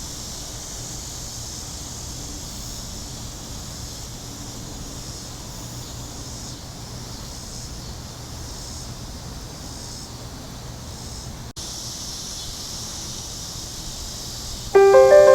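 Steady outdoor chorus of cicadas, a high even drone. Piano music comes in loudly near the end.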